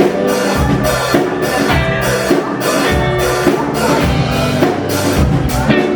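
Wedding dance band playing an upbeat instrumental passage between sung lines, a drum kit keeping a steady beat under held notes.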